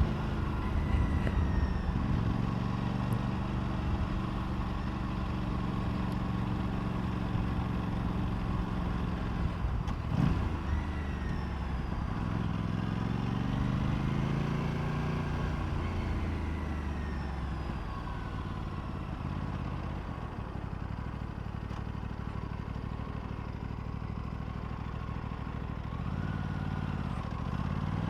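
Aprilia RS 457's parallel-twin engine running under the rider, heard from on the bike. It holds steady revs at first, breaks briefly about ten seconds in, then climbs and falls in pitch as it accelerates and eases off, and climbs again near the end.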